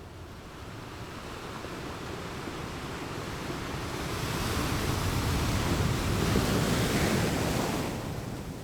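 Sea waves washing on the shore: a wave swells up over a few seconds, breaks and falls away near the end, with wind noise on the microphone.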